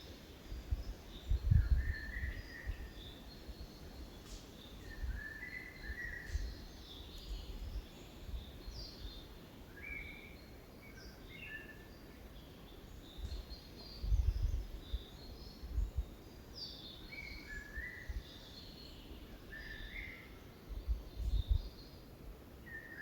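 Birds singing and calling, short chirps and phrases repeating throughout, with several overlapping. Three brief low rumbles, the loudest moments, come about a second in, in the middle and near the end.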